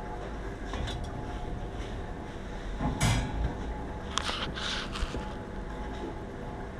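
Knocks and clattering handling noises from work on a cabinet, with a sharp knock about three seconds in and more clatter a second later, over a steady hum.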